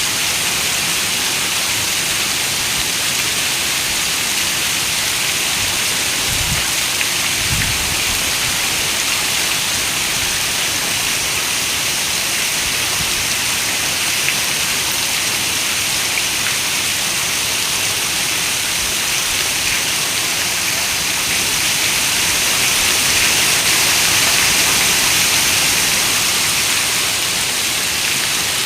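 Heavy rain on a window: a dense, steady hiss that swells a little louder past the twenty-second mark. A brief low rumble comes about six to eight seconds in.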